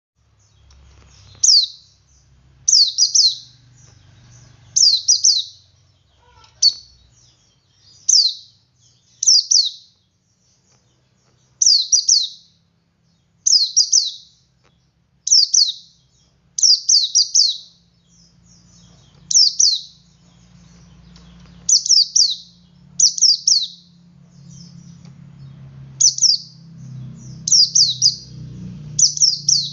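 Male pleci (white-eye, Zosterops) singing its 'ngalas' song: short, high chirps repeated every second or two, many of them a quick double or triple note. A faint low hum lies underneath.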